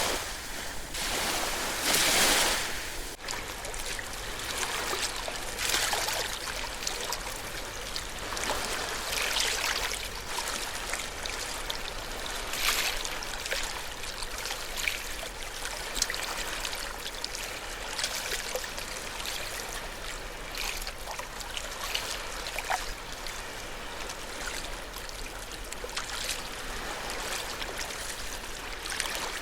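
Ocean waves washing on the shore, with a bigger wash about two seconds in, then smaller washes every few seconds and trickling water between them.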